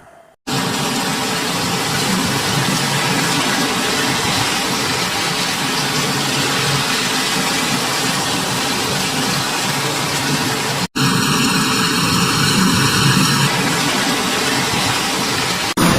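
Steady loud rushing of heavy rain and wind, cut off briefly about half a second in and again near 11 seconds where recordings are joined.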